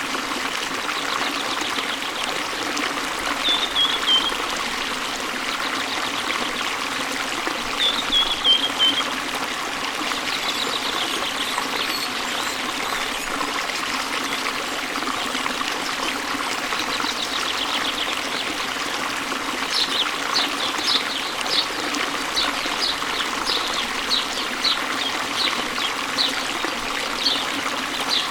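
Steady rush of waterfall water flowing into a stream, with birds calling over it: a short falling call twice in the first third, then a run of quick high chirps, about two a second, from about two-thirds of the way through.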